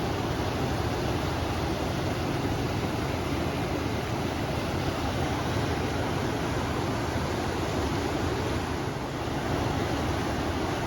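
River water rushing steadily, with wind. A brief slight dip about nine seconds in.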